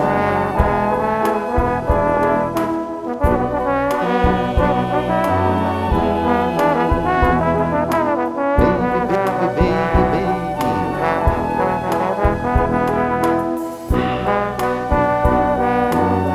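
Live band music: sustained pitched instruments playing together over sharp, regular drum hits.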